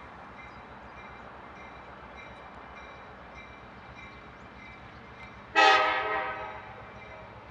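Train horn sounding one short blast about five and a half seconds in: it starts suddenly and fades away over about a second. Under it runs a steady low rumble.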